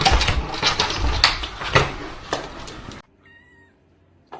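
Domestic cat meowing among a run of clattering knocks and thumps. About three seconds in the sound cuts off abruptly to near quiet, with only a faint high thin tone.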